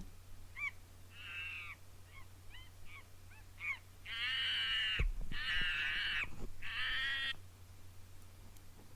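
Recorded monkey calls: several short chirps, then three loud pitched calls of about a second each, starting about four seconds in.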